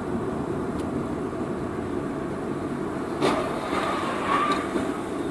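Steady road and engine noise of a car driving, with a single sharp click or knock about three seconds in.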